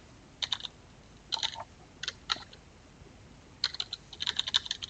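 Computer keyboard being typed on in short bursts of key clicks, with a quicker run of keystrokes over the last second or so.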